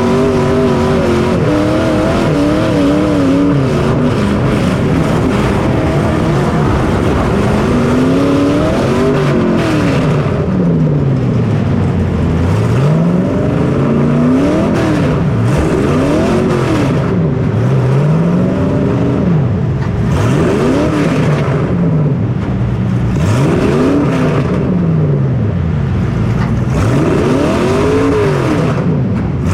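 Small racing engine heard at close range. It holds a steady pitch at first, then revs up and drops back over and over, a rise and fall about every two seconds.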